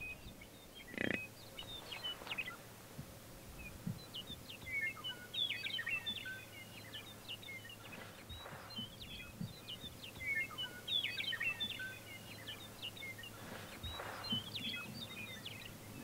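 Songbirds chirping and singing in bursts of quick, high notes, several overlapping at times, with a few short lower sounds mixed in.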